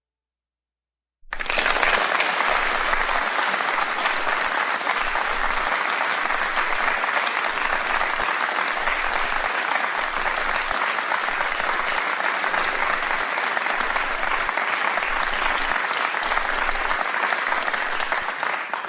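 Sustained applause that starts abruptly about a second in, holds steady and begins to fade out at the very end.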